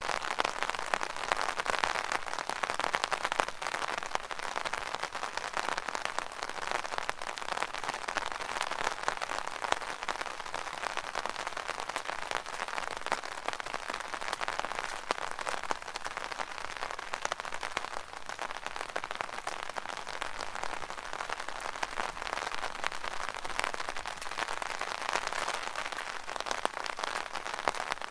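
Rain falling steadily on an umbrella canopy: a dense, even patter of many small drops.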